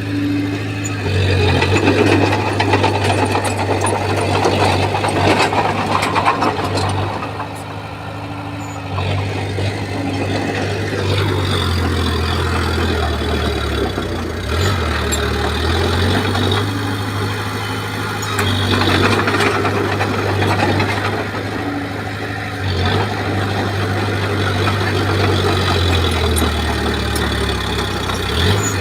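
Komatsu bulldozer's diesel engine running under load, its low note dropping and rising again several times as the load changes, with rough clatter and grinding over it.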